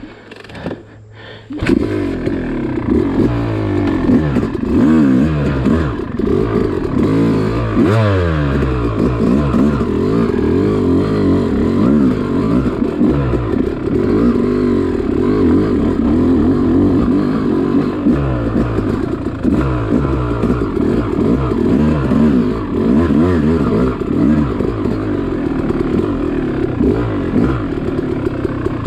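Yamaha YZ two-stroke dirt bike engine, quiet for the first two seconds, then picking up and revving up and down continually as the bike is ridden along a trail, with some clatter.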